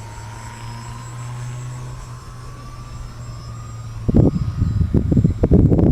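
E-flite P-38 Lightning RC plane's twin electric motors and propellers humming steadily in flight, with a faint whine slowly rising in pitch. About four seconds in, loud gusts of wind buffet the microphone.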